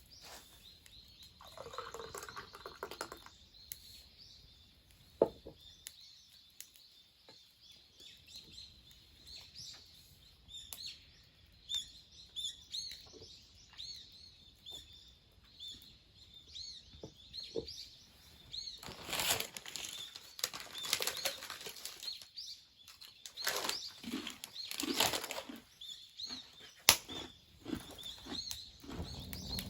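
Small birds chirping over and over in the background, with a few bursts of rustling or flapping and two sharp clicks.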